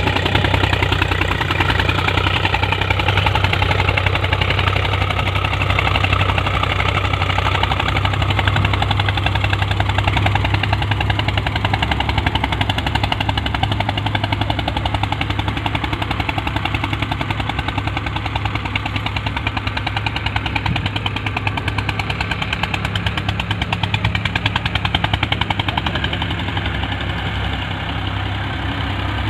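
Eicher 241 tractor's single-cylinder diesel engine running steadily, with a rapid, even diesel knock.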